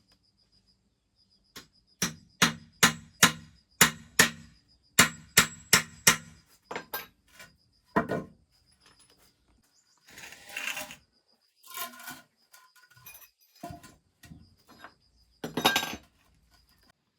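A run of about ten hammer blows on wood, two to three a second, then scattered knocks and two short scraping bursts as the wood is worked. A cricket chirps faintly throughout.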